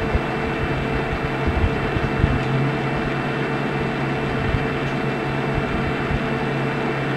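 Steady electrical hum and hiss, with a few soft low bumps about one and a half to two and a half seconds in.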